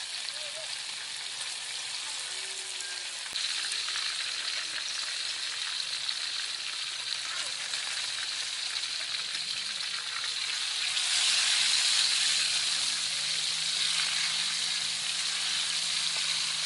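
Pieces of snake frying in hot oil in a wok, a steady sizzle that gets louder about three seconds in and again past the middle. A ladle stirs the pieces near the end.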